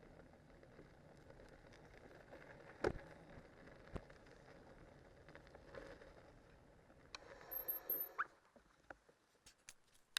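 Cyclocross bike on spiked tyres rolling along a snowy trail: a low steady rolling rumble with two sharp knocks, a louder, rougher stretch near the end, after which the rolling noise drops away to scattered clicks.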